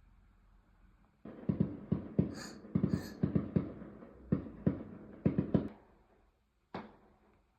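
Fireworks going off: a rapid string of about a dozen bangs and pops with some high crackles, starting about a second in and ending after about four seconds, then one more bang near the end.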